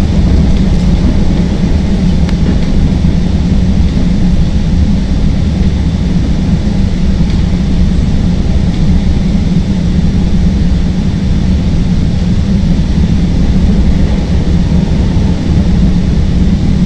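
CTA Green Line elevated train running between stations, heard from inside the car: a loud, steady rumble of wheels on the rails with a strong low hum.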